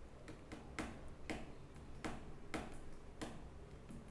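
Faint, sharp clicks or ticks, about one to two a second and not quite even, over a low steady hum.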